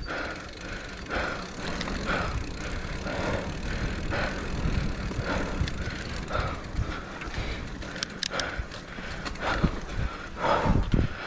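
Mountain bike riding down a wet dirt trail: a steady low rumble of tyres and wind, with a few sharp clicks and knocks from the bike near the end. The rider breathes hard about once a second throughout.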